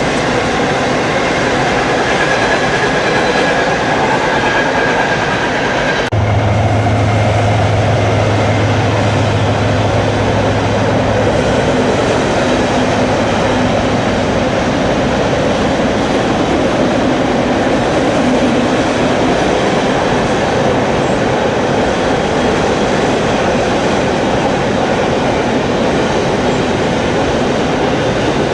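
Railcars of a passing train rolling along the rails with a steady, loud rumble and rattle. A thin high squeal runs through the first few seconds; about six seconds in, the sound changes abruptly and a low steady hum comes in for several seconds.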